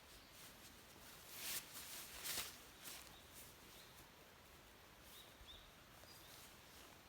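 Quiet outdoor ambience with faint, high, short chirps now and then, and two brief rustles about one and a half and two and a half seconds in.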